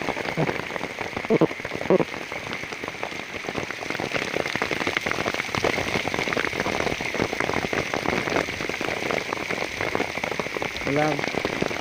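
Heavy rain falling steadily, with many drops pattering close by.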